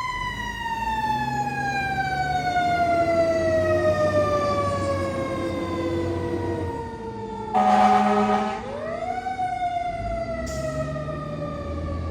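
KME fire engine's siren winding slowly down in pitch for about eight seconds. An air horn blasts for about a second, and right after it the siren winds back up and starts falling again. The truck's engine runs low underneath.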